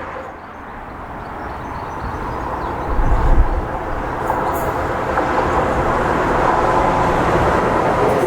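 A train running through the station, a steady rushing noise that builds in loudness as it comes closer, with a brief low rumble about three seconds in.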